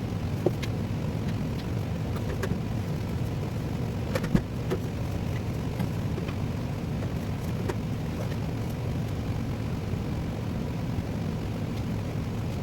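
A steady low drone with a few light clicks and knocks over it, the sharpest knock about four seconds in.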